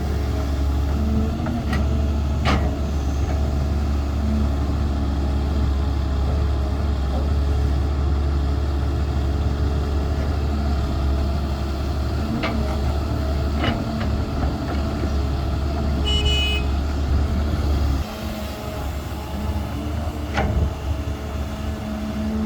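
Diesel engine of a Cat 320 hydraulic excavator running with a steady low drone, broken by a few sharp knocks. A short high tone sounds about sixteen seconds in, and the engine's low drone drops off about eighteen seconds in.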